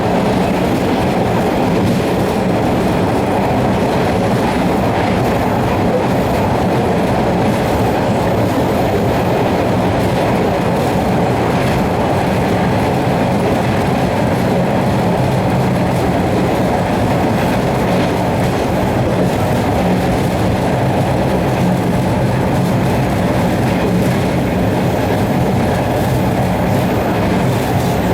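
MBTA Red Line subway train running at steady speed, heard from inside the car: a loud, unbroken rumble of wheels on rails and running gear.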